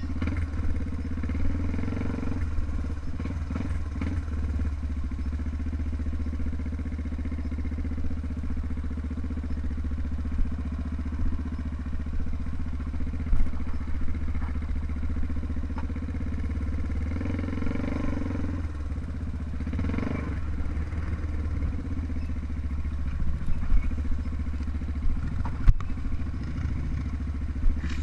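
Trail motorcycle engine running steadily, swelling a little a couple of times, with a few brief sharp clicks.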